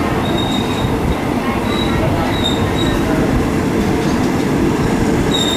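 Passenger train running on the rails: a steady loud rumble with short high-pitched wheel squeals several times.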